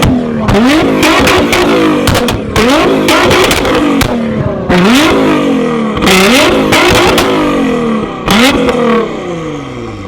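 Tuned car engine revved hard about five times, each rev climbing quickly and dropping back, with sharp pops and bangs from the exhaust between the revs. It drops back toward idle near the end.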